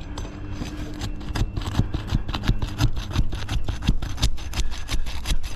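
Asphalt shingle being worked loose from its tight adhesive seal: a dense, irregular run of crackling, tearing snaps as the thin shingle mat rips instead of releasing.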